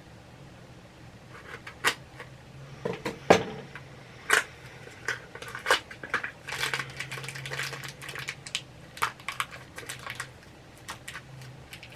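A small cardboard mystery pin box being opened and the pin inside handled: a run of sharp clicks and rustles, densest in the middle.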